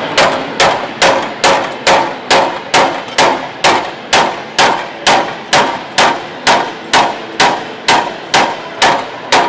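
Steady hammer blows on a chisel, cutting into a Triumph TR7's steel body panel, a little over two strikes a second, each a sharp metallic clang with a short ring.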